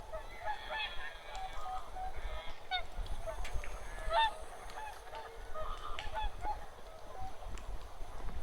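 A flock of wild geese calling, many short honks overlapping continuously.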